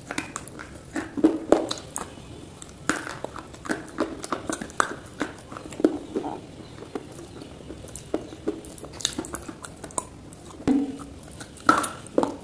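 Dry clay (multani mitti) being bitten and chewed close to the mouth, in irregular sharp crunches several a second. A louder burst of crunching comes near the end.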